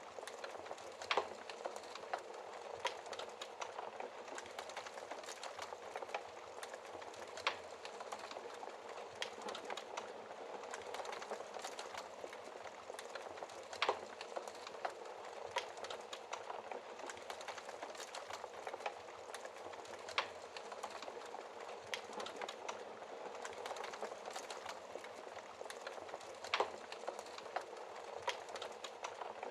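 Wood fire in a fireplace crackling: a steady hiss of flames with a dense patter of small crackles and a louder, sharper pop every five or six seconds.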